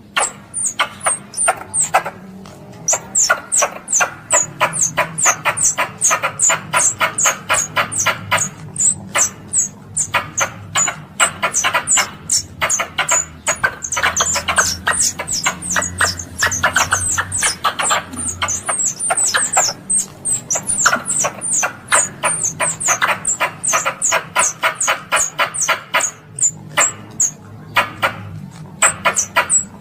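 Squirrel's calling chatter: a rapid series of short, sharp, high chirps, several a second, in long runs with brief pauses. This is the call used to summon or lure other squirrels.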